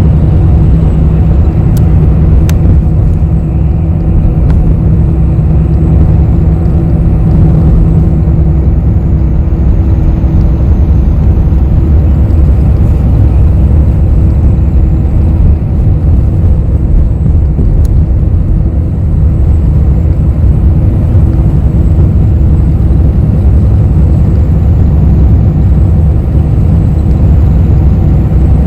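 Inside a moving city bus: a steady low rumble of engine and road noise through the cabin, with a low hum that drops away about eight seconds in.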